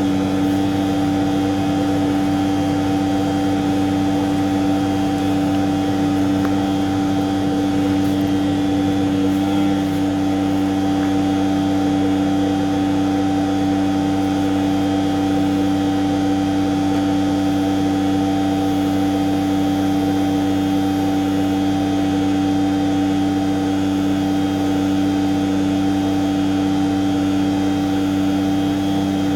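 Tanker truck's machinery running steadily: a constant drone with one strong steady tone and fixed overtones that do not change in pitch or level.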